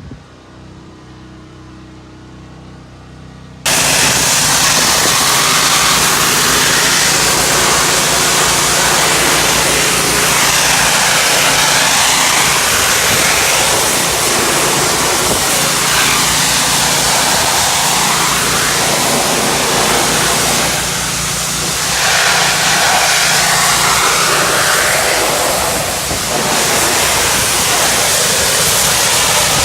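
A pressure washer's engine running, then about four seconds in a loud, steady rush of high-pressure water spray starts as the RYOBI surface cleaner works over concrete, with two brief dips in the spray.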